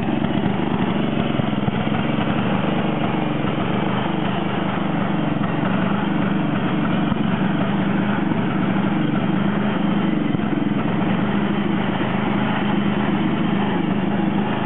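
John Deere 111 lawn tractor engine running steadily at an even speed.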